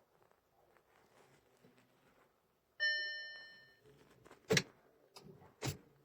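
A single bell-like chime rings out about halfway through and fades away over about a second. Two sharp knocks or clicks follow, about a second apart.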